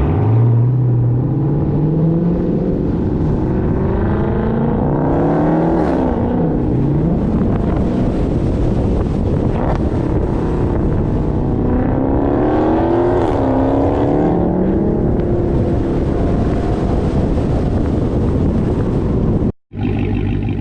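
Dodge Hemi V8 engine run hard. Its pitch climbs for several seconds, drops sharply about six seconds in, climbs again around twelve to thirteen seconds, then falls away. The sound cuts out briefly near the end.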